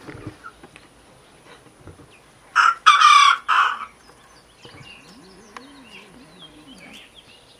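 Rooster crowing once, a loud crow of three or four syllables. Faint bird chirps follow.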